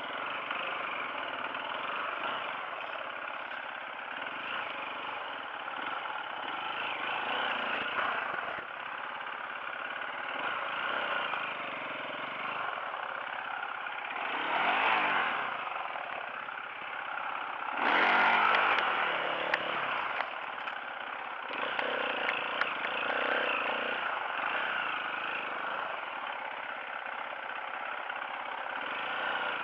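Off-road motorcycle engine running while riding a trail, with two louder bursts of revving around the middle, each rising and falling in pitch.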